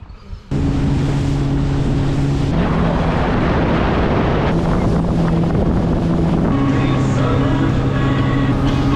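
Outboard motor running steadily as a small boat travels, with wind buffeting the microphone. The engine note shifts a few times.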